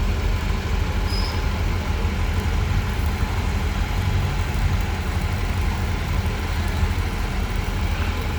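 An engine idling, a steady low rumble with a fast pulsing beat.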